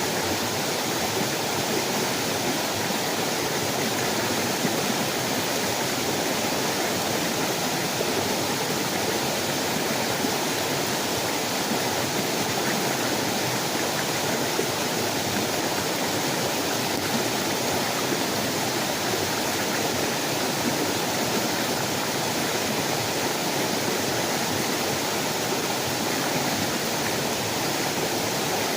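Heavy rain falling steadily, a dense, even hiss that does not change.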